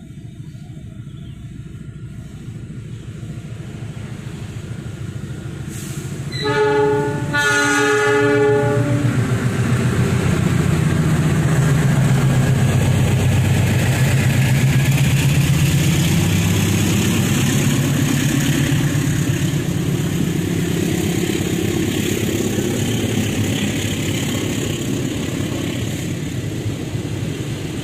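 A diesel-locomotive-hauled passenger train approaches, sounding its horn in two blasts, a short one and then a longer one. It then passes close by with a loud, steady rumble of engine and wheels, which slowly eases off.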